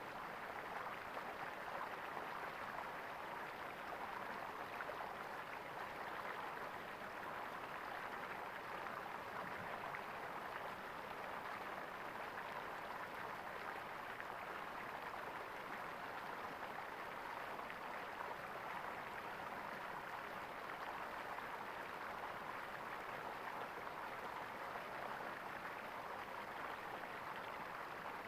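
Water flowing and gurgling steadily in an even rush.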